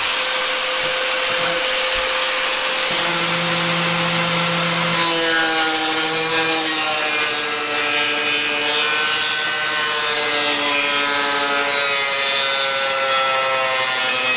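Handheld power grinder running with a steady motor whine, grinding against a workpiece; from about five seconds in the grinding adds a wavering, scraping pitch.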